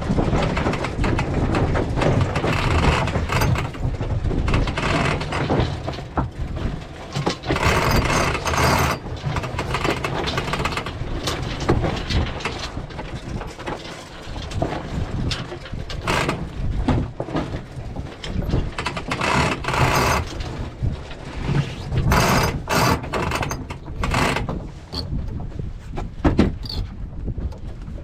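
Wind buffeting the microphone in uneven gusts, with water rushing along the hull of a small sailboat under sail.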